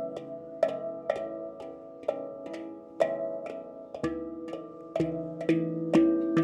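Handpan being played: notes struck by hand in a flowing rhythm, each ringing on, with deeper notes sounding from about four seconds in.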